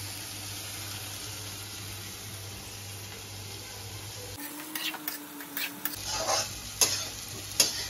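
Vegetables frying in a pan with a steady sizzle, then after about four and a half seconds a few sharp clicks and knocks of utensils against the pan.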